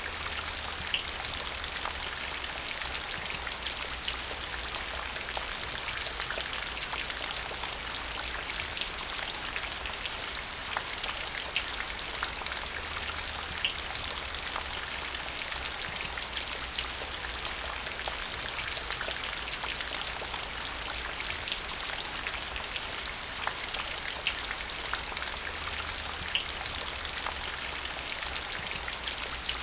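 Steady rain falling, a constant hiss with scattered individual drop ticks and a low rumble underneath.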